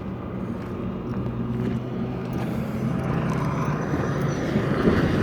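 A motor vehicle's engine hum getting steadily louder as it approaches, with a low, steady pitch.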